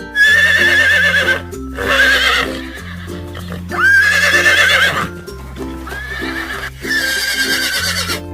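A horse whinnying four times, each a quavering call about a second long, over background music with a steady bass line.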